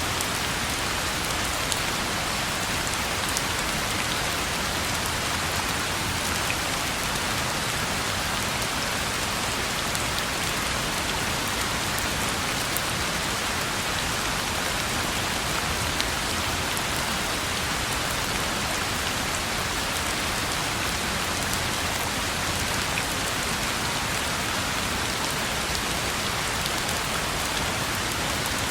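Steady rain falling on a road, an even hiss with scattered sharp drop ticks.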